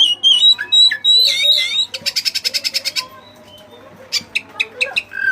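Oriental magpie-robin (kacer) singing loudly: whistled, gliding phrases, then about two seconds in a fast run of repeated notes for a second, and a few sharp notes and short whistles near the end.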